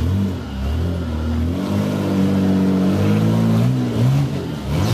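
Off-road trial truck's engine revving, its pitch rising and falling several times as the throttle is worked, with a few quick dips near the end.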